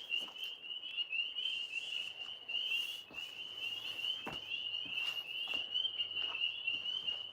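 A chorus of tree frogs trilling steadily, a dense high-pitched pulsing that never breaks. A few faint knocks sound over it.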